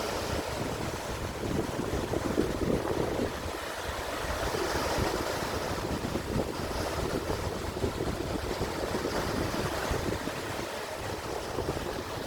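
Sea waves washing, with wind buffeting the microphone as an uneven low rumble.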